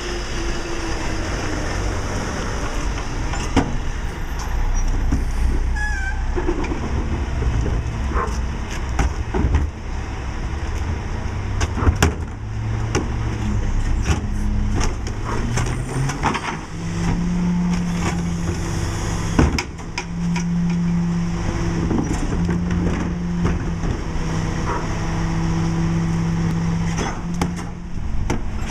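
Mack LE rear-load garbage truck running, its engine humming steadily under repeated clanks and knocks. About halfway through, the engine pitch rises and then holds at a higher steady hum.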